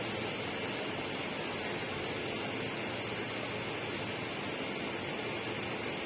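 Steady, even rushing noise with no change or distinct events.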